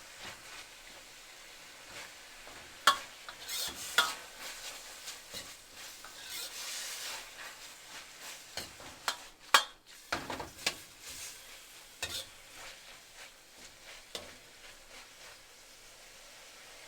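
Food sizzling in a hot pan while a utensil stirs it, with scattered sharp knocks of the utensil against the pan, the loudest about three, four and nine and a half seconds in.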